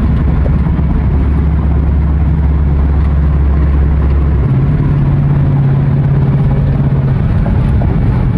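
Dodge Charger R/T's 5.7 L Hemi V8 running through an exhaust with the resonator and mid mufflers cut out, a loud, steady low drone while driving. About halfway through, the drone's pitch steps up as the engine speed changes.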